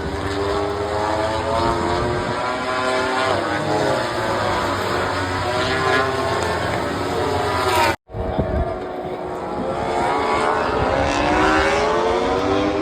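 Racing motorcycles at full throttle passing on the circuit, several engines overlapping, their pitch rising and falling as they go by. The sound cuts out abruptly for a moment about eight seconds in, then the engines carry on.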